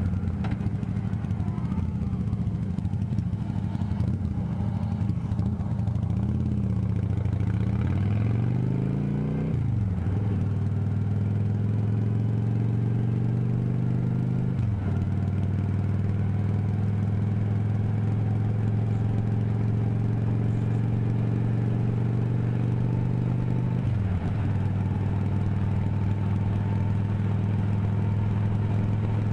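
Motorcycle engine running under way, its pitch wavering, then climbing and dropping sharply about a third of the way in, as in a gear change. It then runs at a steady pitch, with two brief dips around halfway and near the end.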